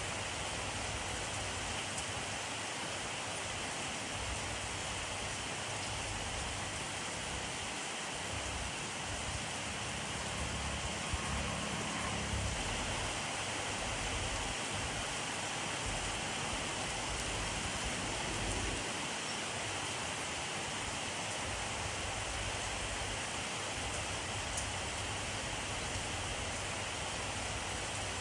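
Steady rainfall, a dense even hiss of drops on surfaces. A low rumble swells briefly near the middle.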